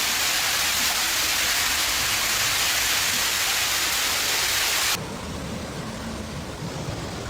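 Heavy rain pouring down in a dense, steady hiss. It cuts off abruptly about five seconds in, giving way to a quieter low rumble.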